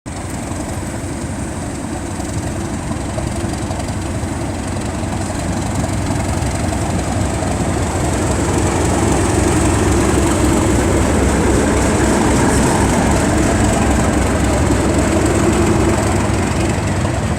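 Class 37 diesel locomotive's English Electric V12 engine running under load as the locomotive pulls away. The engine sound grows louder over the first several seconds, then holds steady.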